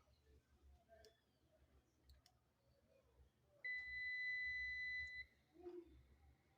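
Digital multimeter giving one steady, high electronic beep about a second and a half long, a little past the middle, after which a faint tone at the same pitch lingers. A few light clicks of the test probes come before it.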